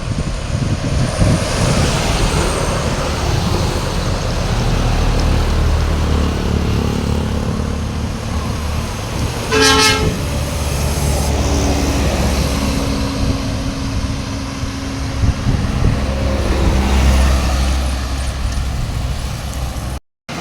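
Heavy road vehicles running past with a low engine rumble that swells twice as they go by, and a short horn toot about ten seconds in.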